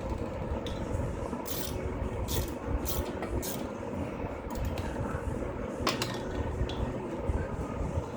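Metal hand tools clinking and scraping against engine brackets and bolts, a handful of sharp clicks over a steady low rumble.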